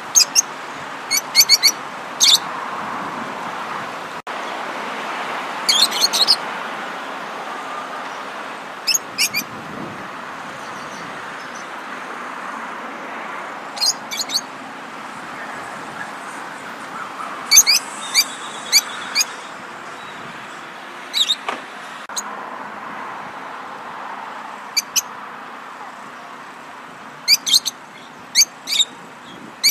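Songbirds chirping in short clusters of quick high notes every few seconds, over a steady background hiss.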